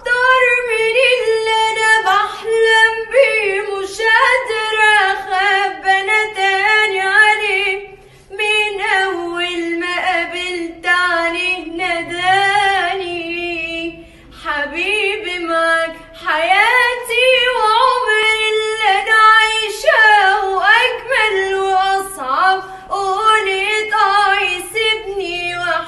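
A female voice singing solo and unaccompanied, in long ornamented phrases with a wavering, gliding pitch, pausing briefly for breath a couple of times.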